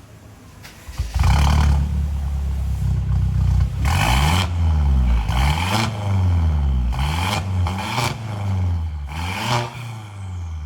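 Mercedes C180's 1.6-litre four-cylinder petrol engine heard through a valved performance exhaust with a downpipe and stage 1 tune. It comes in loudly about a second in, then is revved again and again, the pitch rising and falling with each blip.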